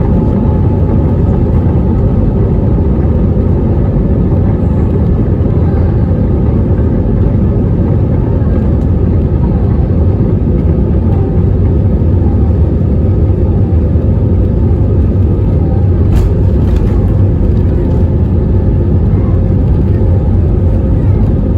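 Airbus A320neo cabin noise from a window seat as the engines run at high takeoff thrust: a loud, steady, deep roar with a faint steady whine above it. A brief click sounds about sixteen seconds in.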